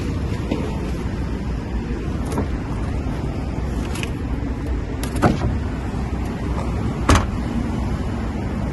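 Steady low rumble with four short, sharp clicks and clunks from a car being handled, the loudest about five and seven seconds in.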